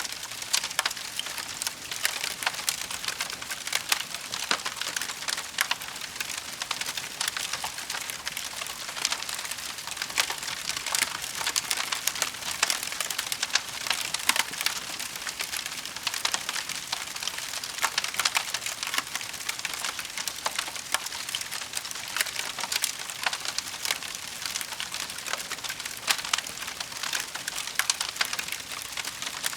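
Wood fire burning in a fireplace, with steady dense crackling and snapping of the logs.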